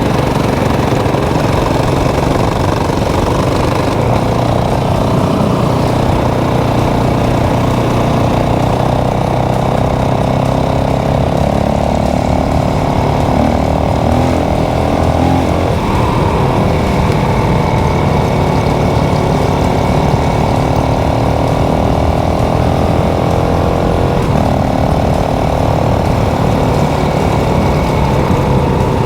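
450 cc motorcycle engine running steadily while riding, its pitch rising and falling a few times with the throttle, notably around the middle and again near the end.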